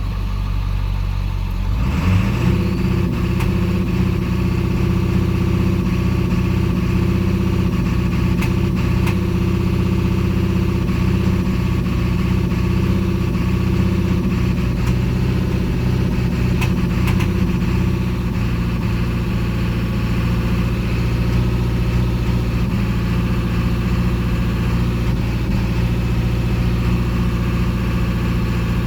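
Ford 7.3-litre V8 diesel engine running, getting louder about two seconds in and then running steadily; the engine has a misfire that does not set a code.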